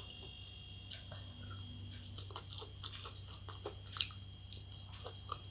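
Close-miked chewing and mouth sounds of a person eating, with scattered small wet clicks and smacks, the sharpest about a second in and about four seconds in. A faint steady hum and a thin high whine sit underneath.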